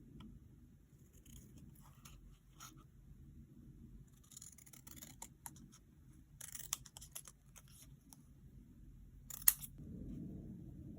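Small craft scissors snipping paper and stickers in short, crisp runs of cuts, with light paper handling. A single sharper click comes near the end.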